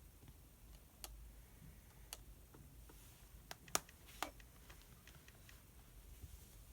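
Quiet room tone with a handful of small, sharp clicks and taps of pen and paper handling on a study desk, spaced irregularly. The loudest comes a little before the midpoint, with a second strong one just after.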